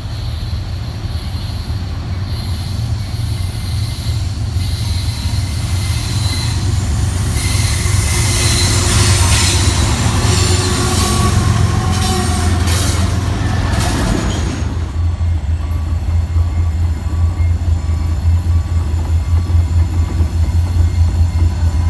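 Freight train rolling past, a heavy low rumble with steel wheels squealing in the louder middle stretch. About 15 seconds in the sound changes suddenly to a steadier, pulsing rumble.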